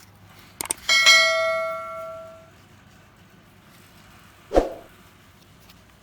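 A metal object struck or set down hard, ringing in several clear tones that fade over about a second and a half, after a few light clicks. A single short, dull knock follows later on.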